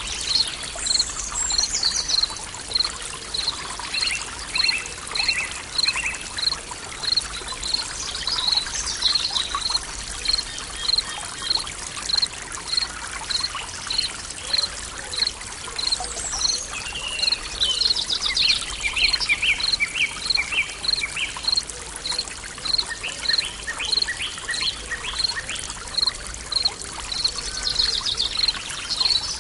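Running stream water with songbirds calling: a high note repeats about twice a second throughout, with scattered chirped and trilled phrases over it.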